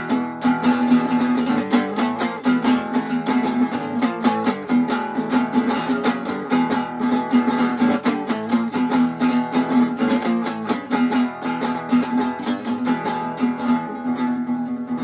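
Acoustic guitar strummed in a steady rhythm: the instrumental introduction of a song, with no singing yet.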